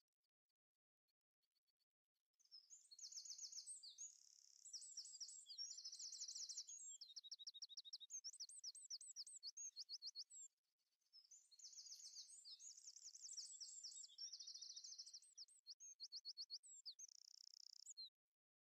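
A songbird singing long, varied phrases of rapid high trills and chirps, with a short break about ten seconds in.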